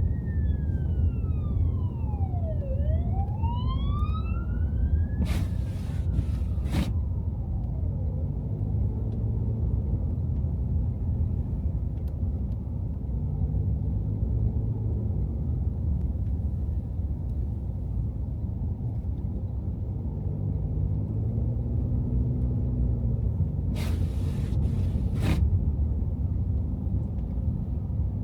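Steady low rumble of a car driving through city streets in snow. An emergency-vehicle siren wails, falling and rising in pitch, over the first several seconds. Two short clusters of sharp knocks come about six seconds in and near the end.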